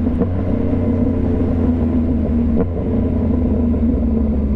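A 2015 Yamaha FZ-09's inline three-cylinder engine running under way at a steady note, heard from the rider's helmet mic, with a brief dip in pitch about two and a half seconds in.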